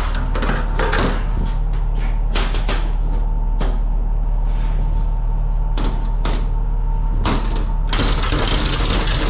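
A string of sharp knocks and clanks over a steady low hum, with a loud rushing noise starting near the end.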